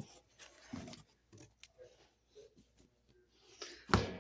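Cardboard box and packing being handled as comics are pulled out of it: scattered faint rustles and scrapes, then a sharp thump about four seconds in.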